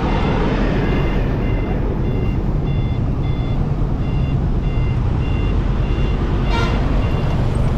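Motorcycle engine running steadily under a haze of wind and road noise, with a short high electronic beep repeating about twice a second.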